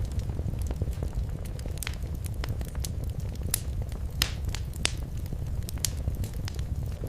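Wood fire burning in a fireplace: a steady low rumble of flames with irregular sharp crackles and pops, a couple of louder pops about four to five seconds in.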